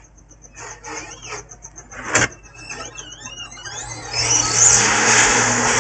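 Hot air rework station starting up for reflowing a laptop motherboard's microcontroller: a click and a few brief squeaky, wavering tones, then a steady hissing rush of blown hot air from about four seconds in.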